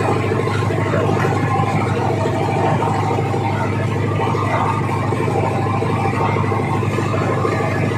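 Boat engine running steadily with a fast, even throb.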